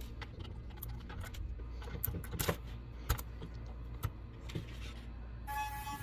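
Scattered light clicks and taps of small hard objects being handled, over a low steady hum. Music with held tones comes in near the end.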